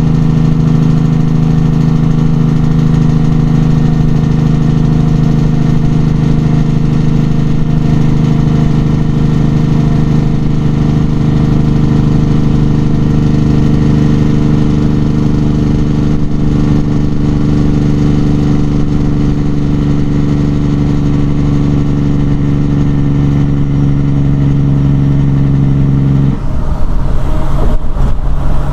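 Detroit 12.7 litre inline-six diesel of a 1997 Peterbilt 378 truck running under way at a steady engine speed. Near the end its note changes abruptly, turning rougher and slightly louder.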